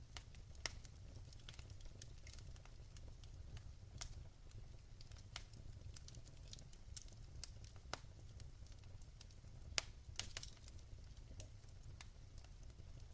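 Wood fire crackling in a fireplace: irregular sharp pops and snaps, several a second, with a quick cluster of louder pops about ten seconds in, over a steady low rumble of the burning fire.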